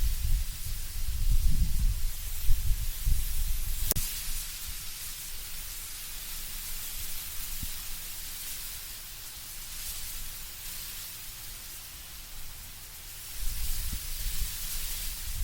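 Wind moving through autumn trees, with a steady hiss of rustling leaves. Low gusts rumble through the first few seconds and again near the end, with a calmer stretch between, and a single sharp click about four seconds in.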